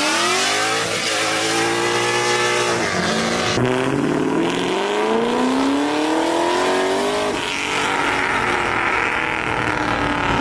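A car accelerating hard at full throttle, its engine pitch climbing steadily, dropping at an upshift about three and a half seconds in, climbing again through the next gear and shifting once more about seven seconds in.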